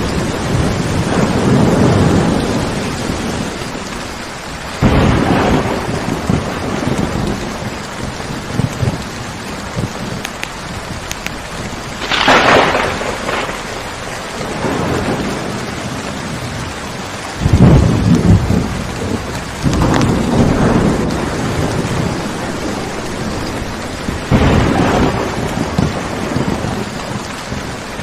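Steady rain falling in a thunderstorm, with several rolls of thunder swelling up and dying away, one with a sharper crack about twelve seconds in.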